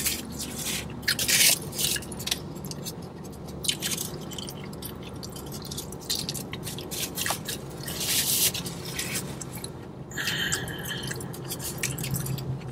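A mouthful of chicken burrito being chewed close to the microphone, with the aluminium-foil wrapper crinkling as it is handled. The louder rustles come about a second and a half in and again about eight seconds in.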